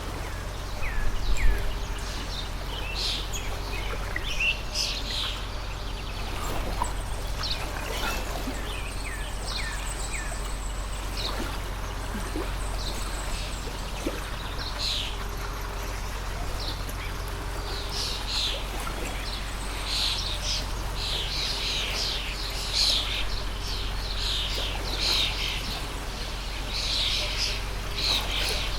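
Many birds chirping in short, quick calls, thickest in the second half, over the steady rush of a water stream. A brief low thud about a second and a half in is the loudest moment.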